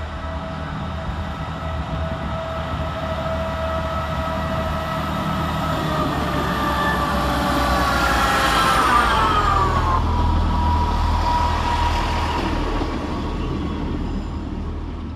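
Class 158 diesel multiple unit departing and passing close by: a low diesel engine hum under several whining tones. It grows louder to a peak about nine seconds in, its pitch drops as it passes, and then it fades away.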